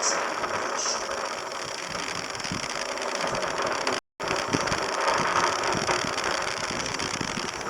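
Falcon 9 first stage's nine Merlin engines burning in ascent, heard through the livestream audio as a steady crackling rumble. The sound drops out for a moment about halfway.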